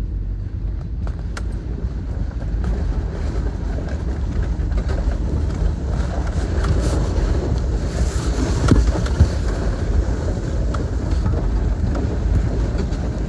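Toyota Tacoma pickup driving off-road over rough ground: the engine runs steadily under the rumble of the tyres, with a few sharp knocks from the truck body and suspension.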